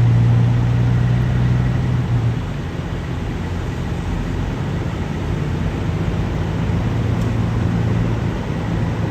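Semi truck's diesel engine running steadily, a low hum that is a little louder for the first two seconds and then settles.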